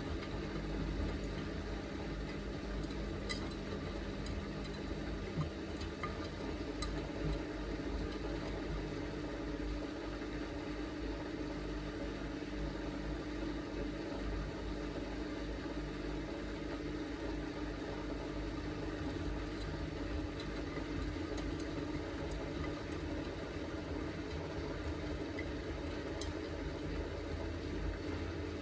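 Miele W3985 washing machine draining after the first rinse: the drain pump runs with a steady hum, with a few faint clicks.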